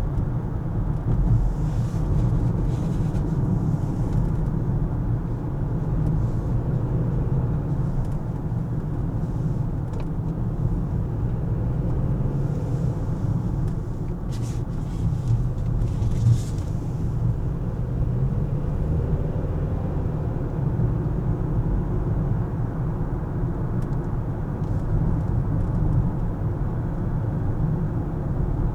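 Car driving, a steady low rumble of engine and tyre noise, with a few faint brief clicks about two seconds in and again around fifteen seconds in.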